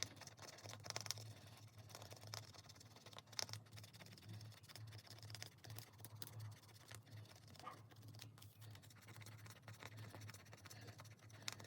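Faint, rapid scratching and ticking of a coin or fingernail scratching off a scratch-off savings challenge sheet, sped up by fast-forwarding, over a steady low hum.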